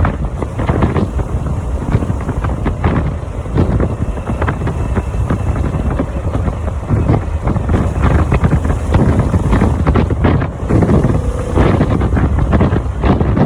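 Heavy wind buffeting the microphone on a Harley-Davidson motorcycle riding at speed, with the engine's low rumble underneath.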